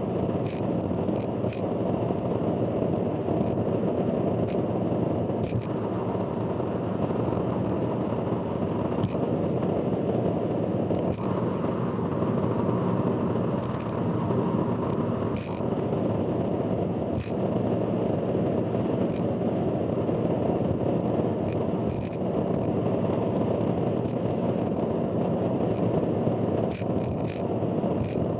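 Car driving on an expressway, heard through an in-car dash camera sped up to four times speed: a steady, dense road and engine rumble with irregular sharp clicks scattered through it.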